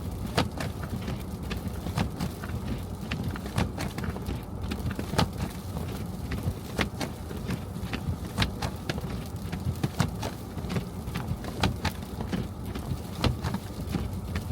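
Car driving through a snowstorm: a steady low rumble of road and engine, with irregular sharp ticks and taps, several a second, much like rain or ice pellets hitting the car.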